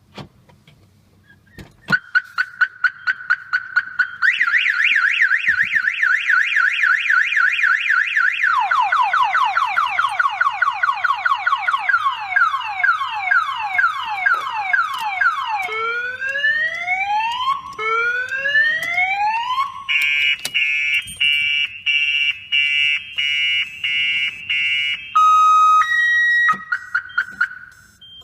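Viper 5706 car alarm siren going off, stepping through its cycle of tones: a fast warble, falling sweeps, slow rising whoops, a pulsing blare and a two-tone hi-lo, stopping shortly before the end.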